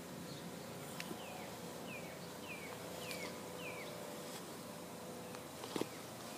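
A bird calling: five short chirps, each sliding downward in pitch, spaced about half a second apart, then a single sharp click near the end.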